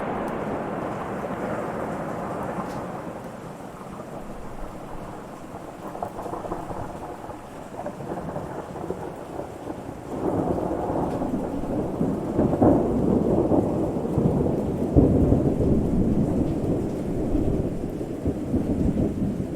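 Thunder rumbling over steady rain. One rolling rumble dies away over the first few seconds, and a second, louder one builds about ten seconds in and rolls on.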